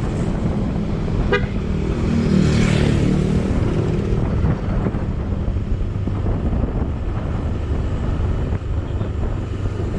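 Steady wind rumble on the microphone, with a motor vehicle passing close by, loudest about two to three seconds in.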